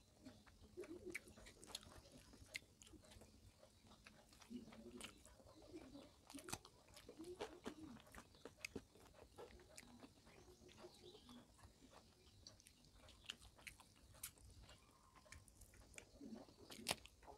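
Faint, close-miked chewing of a mouthful of rice and dal, with many short sharp mouth clicks.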